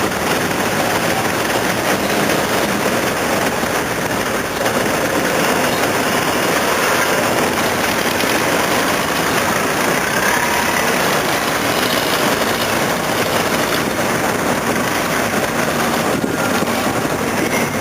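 Steady, loud running noise of a vehicle, an even rumble and hiss with no breaks.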